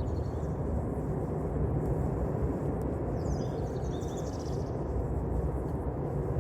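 Steady low outdoor rumble, like distant traffic or wind on the microphone, with a bird chirping briefly about three seconds in.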